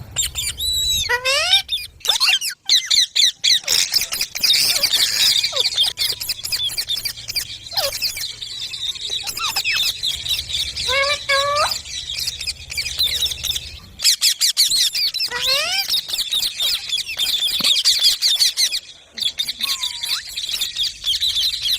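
Several rose-ringed parakeets chattering and screeching together, with many short rising calls overlapping and hardly a pause.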